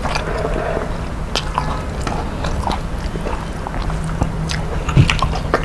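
A person chewing and biting food close to the microphone, with irregular small clicks of mouth and food noise over a steady low hum.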